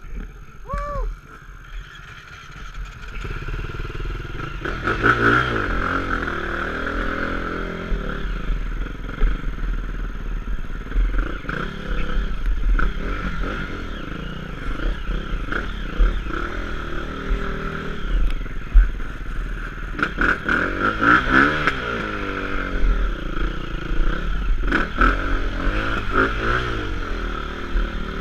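Dirt-bike engine running and being revved in repeated rising and falling swells, with clattering and scraping alongside.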